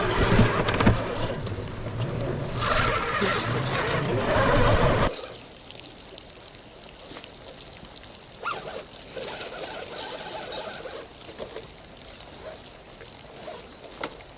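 Water pouring and trickling. It is loud and churning for about the first five seconds, then cuts off abruptly to a quieter trickle with small scattered splashes.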